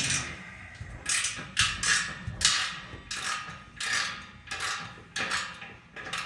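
Hand ratchet wrench working an exhaust bolt loose: a dozen or so short rasping ratchet strokes, roughly two a second.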